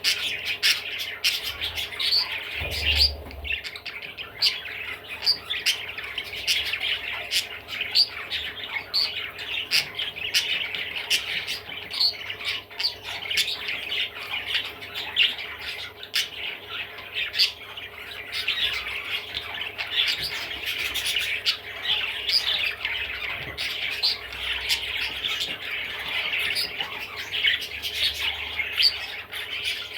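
Budgerigar chattering: a continuous run of warbling, chirps and clicks with sharper squawk-like notes scattered through it.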